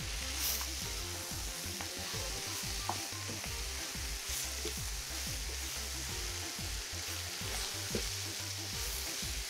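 Chicken pieces and dried red chillies sizzling in hot oil in a nonstick frying pan, stirred with a wooden spatula, with a few light scrapes and taps of the spatula against the pan.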